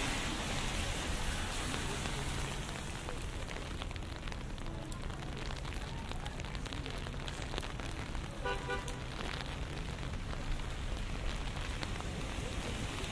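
Steady rain falling on a wet city street, dense fine patter over a low, continuous rumble of traffic. A brief pitched sound cuts through about eight and a half seconds in.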